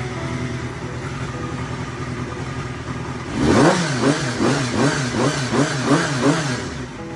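Honda Jade 250 motorcycle's inline-four engine idling steadily, then blipped about seven times in quick rhythmic throttle revs, about two a second, before dropping back to idle.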